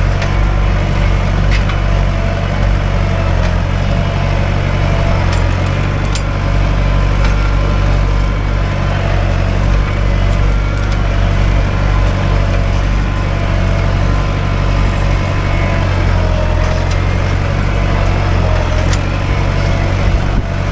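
Mahindra 575 DI tractor's diesel engine running steadily under load, pulling a nine-tine cultivator, with a few faint clicks over the top.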